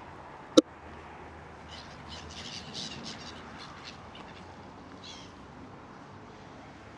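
Birds being fed, calling in a busy flurry of short, high calls from about two to four seconds in, with another short run of calls a little after five seconds. A single sharp click about half a second in is the loudest sound.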